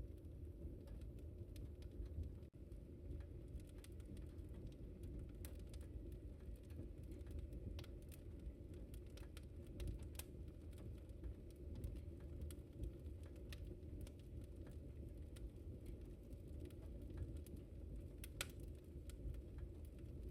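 Wood fire crackling in a fireplace: scattered sharp pops and snaps over a steady low rumble of burning, with one louder pop near the end.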